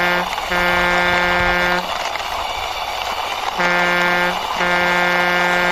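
A low truck horn honking in short-long pairs: a long honk about half a second in, then after a pause of about two seconds a short honk and a long one, over a steady rumbling hiss.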